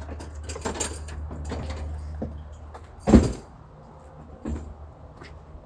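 Clicking and rattling of something being handled over a low hum, with one loud thump about three seconds in.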